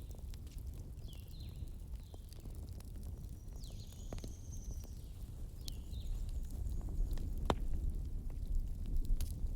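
Wood campfire crackling, with scattered sharp pops over a low steady rumble; one loud pop comes about three-quarters of the way through. Short high chirps come and go, several times.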